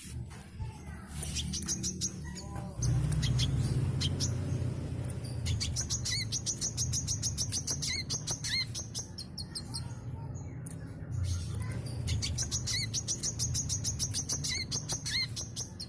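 Brown-throated sunbird singing a long, fast run of high, rapid chirps and trills with short up-slurred notes mixed in, the energetic continuous song kept up as a lure for other birds. A low rumble sits underneath from about three seconds in.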